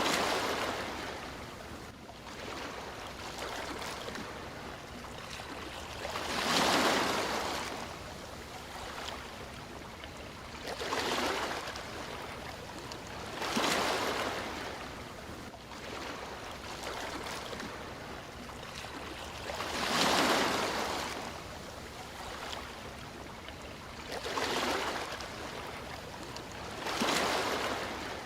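Sea waves breaking and washing on a shore, each wave swelling up and falling away every few seconds over a steady hiss of surf.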